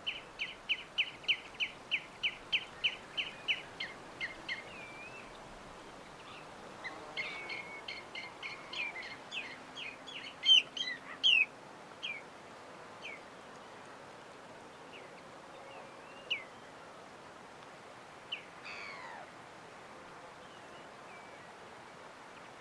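Songbirds chirping: a fast series of short repeated chirps, about three or four a second, for the first few seconds, then a cluster of varied chirps and whistles, then scattered single calls, over a steady soft hiss.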